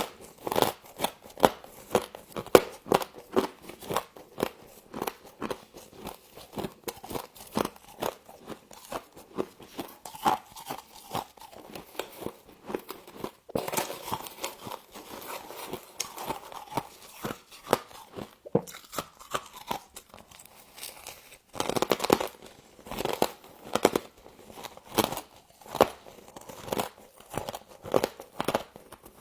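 Frost being bitten and chewed: a dense run of sharp crunches in quick succession, with a couple of short breaks.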